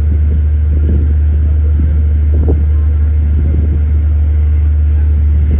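Passenger ferry's engines droning with a steady low hum, heard on board.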